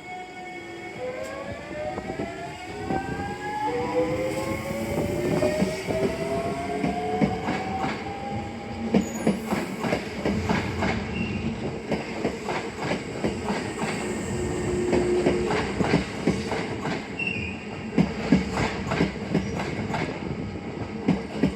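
A Hankyu 8000-series and 7000-series electric train pulling away slowly. Its traction motors give a whine of several tones rising in pitch over the first several seconds, then the wheels keep clicking over rail joints and points, with a few short high wheel squeals.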